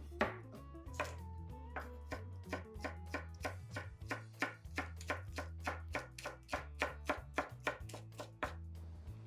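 Knife chopping vegetables on a cutting board, quick even strokes about three or four a second, over soft background music.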